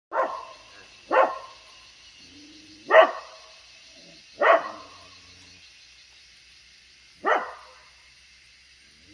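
Dog barking: five single barks, irregularly spaced and with a long gap before the last, over a steady high hiss.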